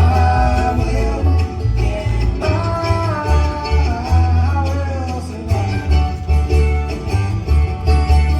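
Bluegrass-style band music: picked banjo and guitar over a steady, moving bass line, with a higher melody line gliding over them in the first half.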